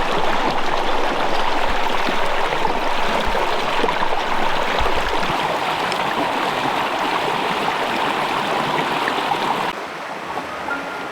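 Fast-flowing brook rushing and splashing over rocks close by, a steady, loud wash of water. Near the end it drops away abruptly to a much quieter sound.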